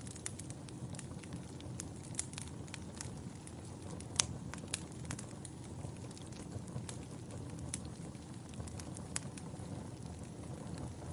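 Logs burning in a fireplace: a steady low rush of flame with scattered sharp crackles and pops, the loudest about four seconds in.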